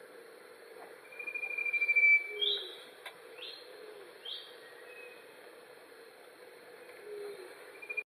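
Bird calls: a rapid trill that grows louder for about a second, then three short, loud, higher notes about a second apart, with a few faint low notes later on.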